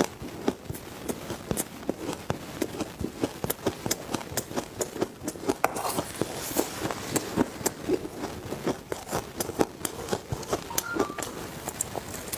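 Someone biting and chewing ice close to the microphone: a fast, uneven run of sharp crunches, several a second.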